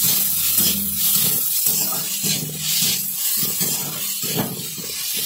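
Sliced onions sizzling in hot oil in an aluminium kadhai while a metal spatula stirs and scrapes them. There is a steady hiss, broken by repeated scraping strokes.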